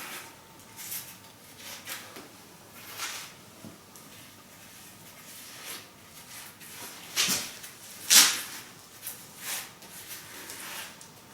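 Short scraping and rubbing noises of stone and mortar being worked by hand, as a flagstone is set in cement mortar, coming irregularly, the loudest two about seven and eight seconds in.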